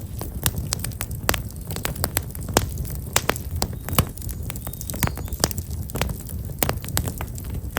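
Black locust wood fire crackling, with many sharp irregular pops over a low steady rumble.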